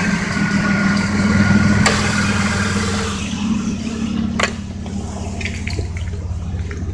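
Pickup truck engine idling steadily. A high hiss fades out about three seconds in, and there is a single sharp click a little past the middle.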